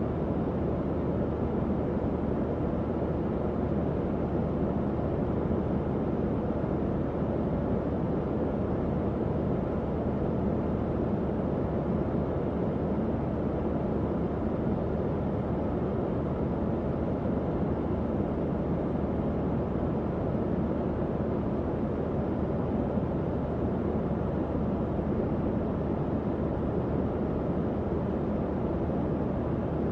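Tower fan running steadily: an even, low airflow rush with a faint low hum from the motor.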